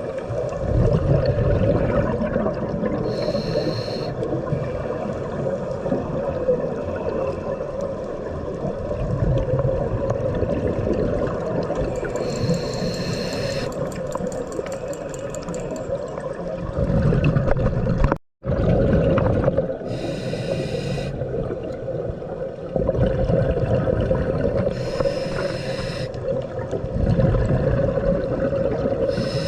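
Underwater recording of a scuba diver breathing through a regulator: a steady muffled rumble with slow breath swells, and a hissing rush of exhaled bubbles every five to seven seconds. The sound cuts out for a moment a little past the middle.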